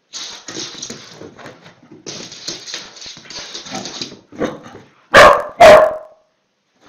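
A dog gives fainter, rough noises, then barks twice, loudly, about five seconds in, reacting to a half lemon held out to it.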